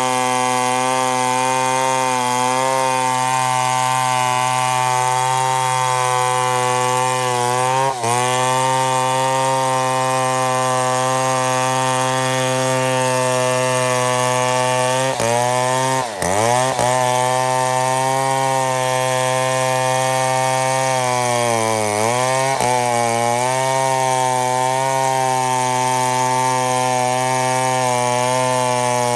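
Chainsaw running at high revs under load, ripping along a mahogany log to mill it into slabs. The engine note dips briefly about 8 seconds in, drops sharply at about 16 seconds, and sags again around 22 seconds before recovering.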